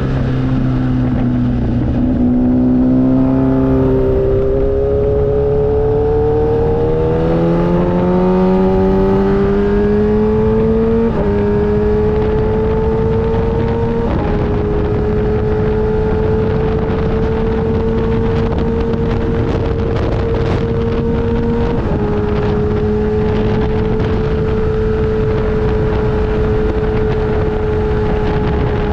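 Motorcycle engine heard from the bike while riding: it pulls up in pitch over roughly the first ten seconds with a few small steps, then holds a nearly steady pitch while cruising, over a constant rush of wind and road noise.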